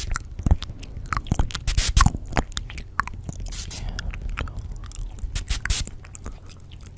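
Close-miked ASMR mouth sounds: a dense, irregular run of small clicks and crackles.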